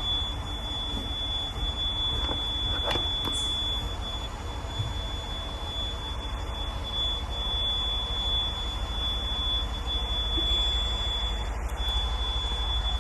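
Caterpillar C18 inline-six diesel engine running steadily while it warms up, with a constant high-pitched tone over the low engine sound.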